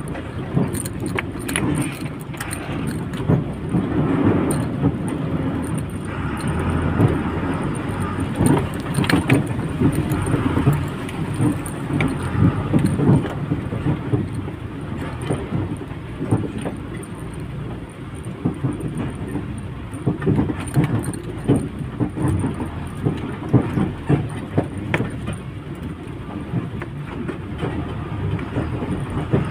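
Lorry on the move, heard from inside the cab: a steady engine and road rumble with frequent small rattles and clicks.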